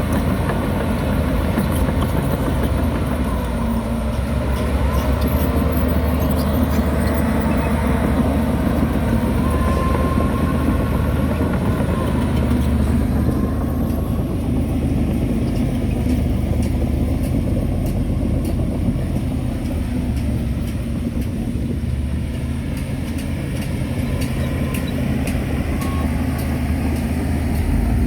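Heavy diesel earthmoving machinery running steadily under load, with a low, even engine drone and faint intermittent clanking.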